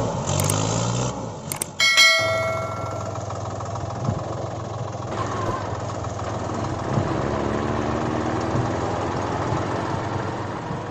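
Engine idling steadily. A single metallic clang rings out about two seconds in and dies away over about a second.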